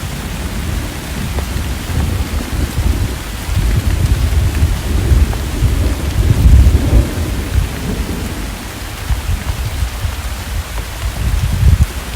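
Rolling thunder rumbling under steady rain. The rumble builds a few seconds in, is loudest about six to seven seconds in, eases, then swells again near the end.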